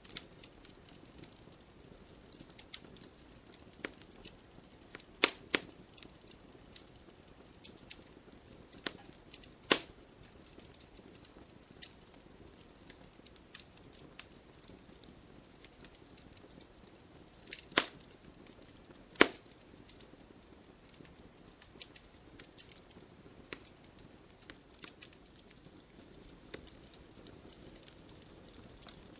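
Wood fire crackling in a fireplace: frequent small snaps and ticks over a faint hiss, with a few louder pops, the loudest around 5, 10, 18 and 19 seconds in.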